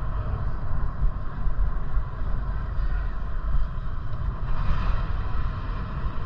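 Wind buffeting the microphone during a bike ride: a loud, gusting low rumble over steady rolling noise, with a brief swell of hiss about five seconds in.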